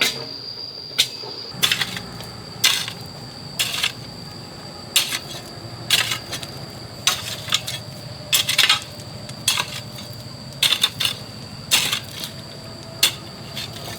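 A metal hoe chopping into hard soil over and over, a sharp chink at each stroke about once a second, with insects trilling steadily behind.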